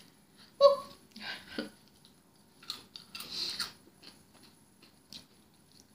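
Crunching and chewing of Flamin' Hot Cheetos close to the microphone, in a few separate bouts, the longest about three seconds in. A brief vocal sound comes about half a second in.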